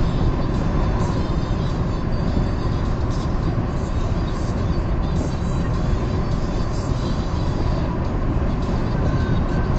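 Steady road and engine noise of a car driving on a highway, heard from inside the cabin.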